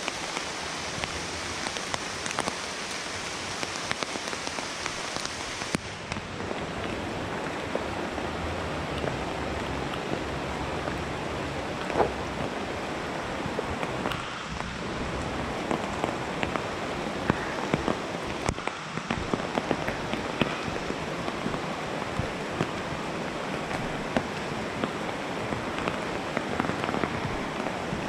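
Heavy rain falling steadily, a dense hiss with frequent sharp drip ticks. The highest hiss drops away about six seconds in.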